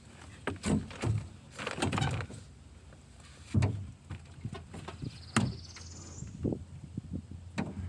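Irregular knocks, thumps and a scrape from fishing gear being handled and set down, with a brief rising high chirp about five seconds in.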